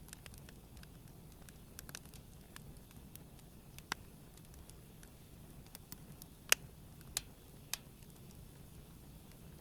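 Wood campfire crackling: a steady scatter of small pops and ticks over a low steady rumble, with a few louder snaps, the loudest about six and a half seconds in.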